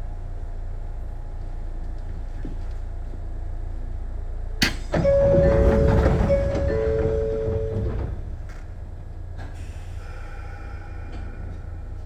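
Stopped Sotetsu New 7000-series electric train with a steady low rumble. About four and a half seconds in there is a sharp click, then about three seconds of louder hissing with two steady tones over it, which then fades.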